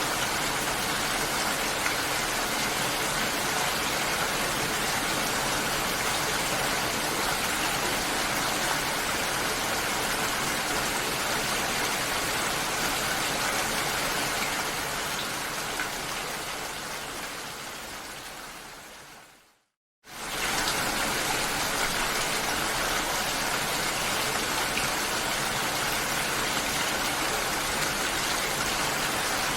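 Steady hiss of water, like heavy rain or rushing water. About two-thirds of the way through it fades away to a moment of silence, then quickly returns at the same level.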